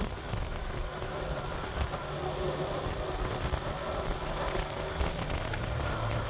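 Suzuki GN125's small single-cylinder four-stroke engine running steadily while riding, with a thin buzzing note over low wind rumble on the microphone.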